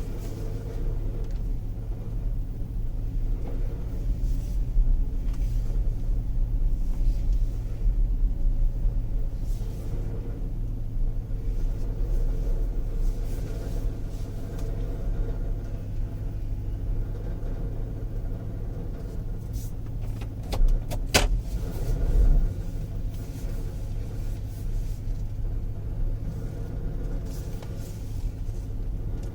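Second-generation Dodge Durango's Hemi V8 running steadily with a low rumble, carrying the grinding noise the owner hears at slow speeds and cannot place: water pump, starter, torque converter or a failing catalytic converter. A few sharp clicks come about two-thirds of the way through.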